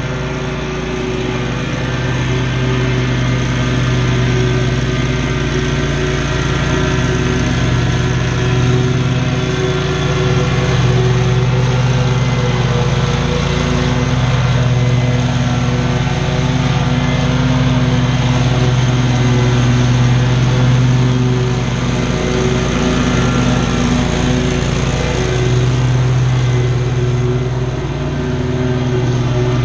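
Small petrol engine of lawn-care equipment running steadily at working speed throughout, with slight swells and dips under changing load.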